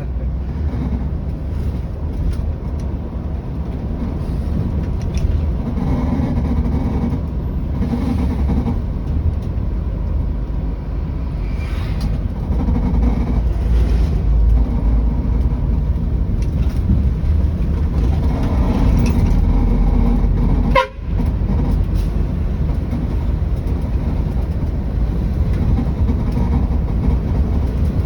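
Scania 113 bus's diesel engine running as the bus drives, a steady low rumble that swells and eases through the gears. The sound drops out sharply for an instant about three quarters of the way through.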